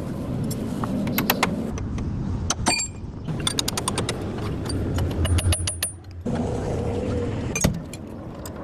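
Workshop clatter: sharp metallic clicks and clinks of tools and parts over a steady low mechanical hum, breaking off briefly twice.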